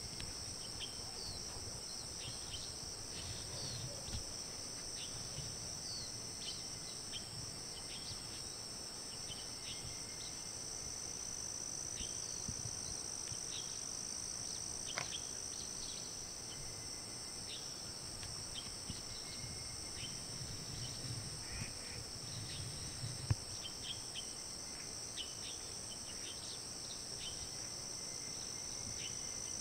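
Steady insect chorus of cricket-like trills, two high continuous tones running unbroken, with many short high chirps scattered through it. A single sharp click comes about halfway through.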